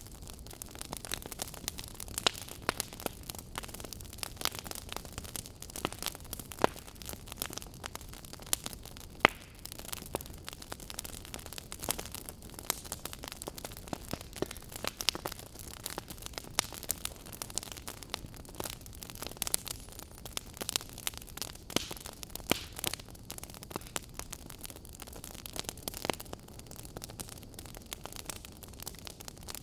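Burning firewood crackling: frequent sharp pops and snaps, a few much louder than the rest, over a steady low hiss and rumble of the flames.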